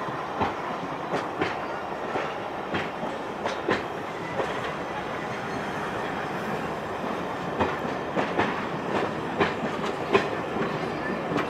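Railway passenger coaches rolling past, their wheels knocking over the rail joints, often in close pairs, over a steady rumble.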